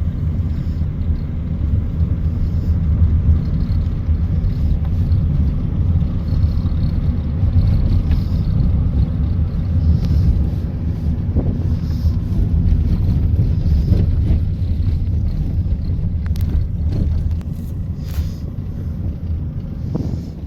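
A car on the move: a steady low rumble of engine and road noise, with a few faint ticks about two-thirds of the way through.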